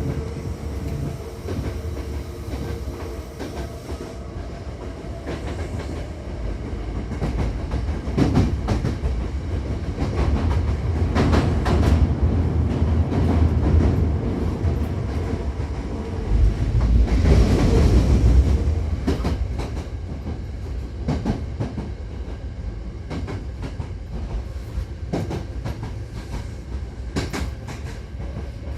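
Hankyu 7000-series electric train running, heard from inside the car: a steady rumble of the running gear with wheels clicking over rail joints and points, swelling louder through the middle.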